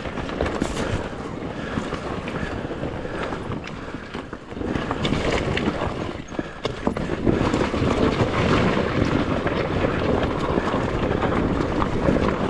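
Beta dirt bike engine running and revving under load while riding over rough rocky ground, with wind on the microphone. The engine eases off briefly about four seconds in, then picks up again.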